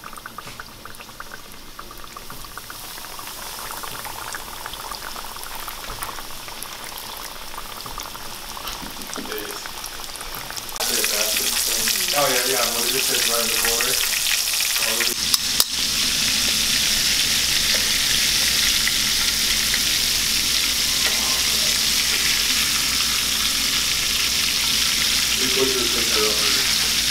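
Battered catfish fillets deep-frying in hot oil in a cast iron skillet: a steady sizzle that gets markedly louder about eleven seconds in, with a couple of sharp clicks midway.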